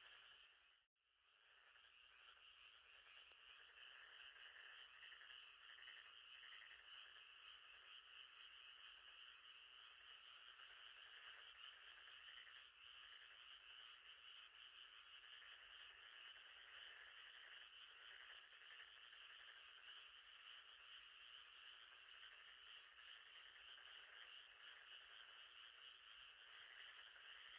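Faint chorus of frogs at night, a continuous rapid trilling that drops out for a moment about a second in, then resumes.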